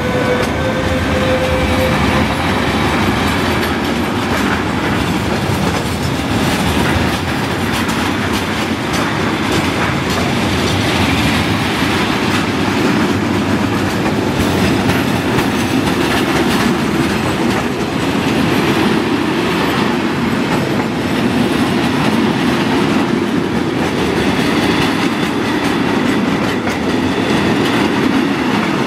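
Loaded timber wagons of a freight train rolling past on the track, their wheels clattering over the rail joints in a steady rumble. A high ringing tone dies away in the first two or three seconds.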